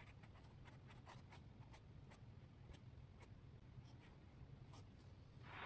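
Near silence: faint room tone with a few faint scattered ticks.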